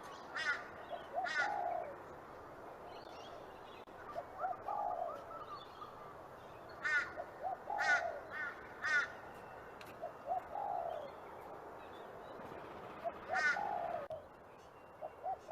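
A dove cooing. Each phrase is a couple of short low notes followed by a longer falling coo, repeating about every three seconds. Another bird's short harsh, buzzy calls ring out between the coos and are the loudest sounds.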